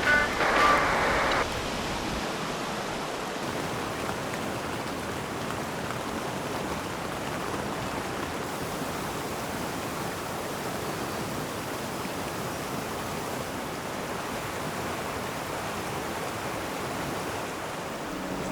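Steady rushing of a mountain river flowing past the campsite, an even hiss of running water. It is louder for the first second and a half, then settles to a constant level.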